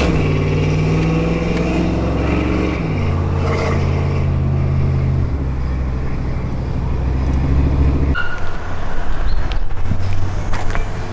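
Loud exhaust of a GMC Sierra's 5.3-litre V8 running on the move, its drone holding steady pitches that shift in steps a few times. After about eight seconds the steady note drops away into an uneven rumble.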